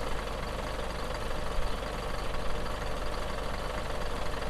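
A small motor running steadily, an even hum with no change in speed.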